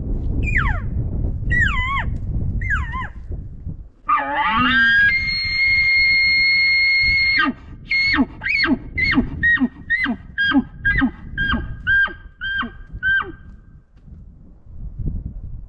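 Gray Phelps mouth diaphragm elk call blown as a bull elk bugle: three short wavering notes that fall in pitch, then a call that climbs to a long high scream held for about two and a half seconds, then about a dozen quick grunting chuckles. Low wind rumble on the microphone in the first few seconds.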